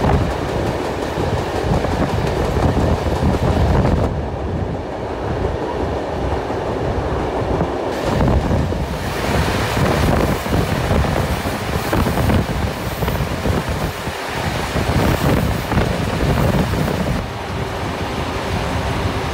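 Steam-hauled passenger train running along the line, heard from an open carriage window: a steady rumble and clatter of wheels on the rails with rushing air. The high hiss dips for a few seconds about four seconds in, then comes back.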